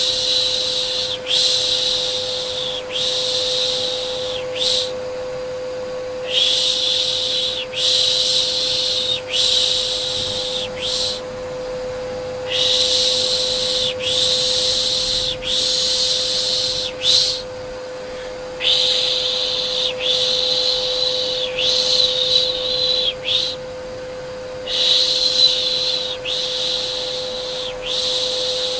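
Soothing 'pış pış' shushing for a baby: a breathy 'shh' repeated in groups of about four, each about a second long, with short pauses between the groups. Underneath runs a steady electric vacuum cleaner hum.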